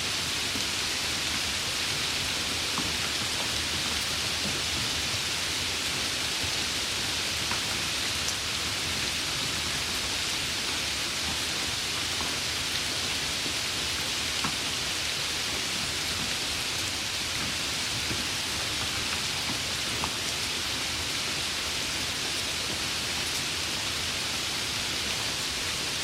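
Steady rain: an even hiss with a few faint drop ticks scattered through it.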